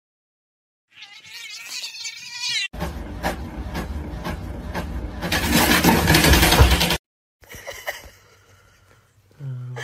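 A cat meows with a wavering pitch, then a home inkjet printer runs, its mechanism whirring and rumbling as it feeds paper, louder in its last couple of seconds before stopping abruptly.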